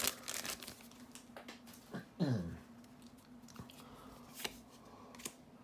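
Magic: The Gathering cards handled and flipped, with scattered soft clicks and rustles. About two seconds in, a short sound slides down in pitch. A faint steady hum runs underneath.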